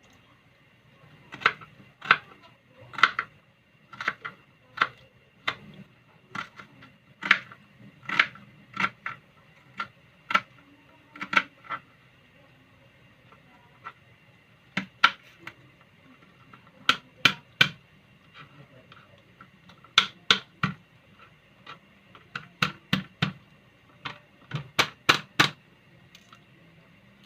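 A long series of sharp clicks and knocks at irregular intervals, often in quick groups of two or three, like small hard objects being handled or set down, over a faint steady hum.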